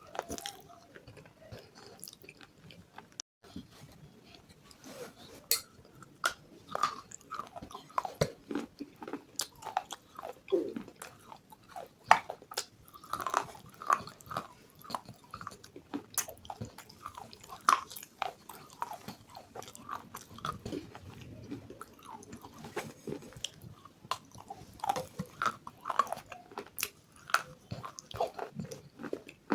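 Close-miked biting and chewing of something crunchy: irregular crunches and crackles, with a brief pause about three and a half seconds in.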